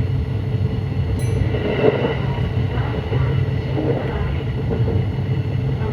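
Running sound of a Kintetsu 9200 series electric train under way: a steady low rumble with a faint steady hum. A brief high-pitched squeak comes about a second in.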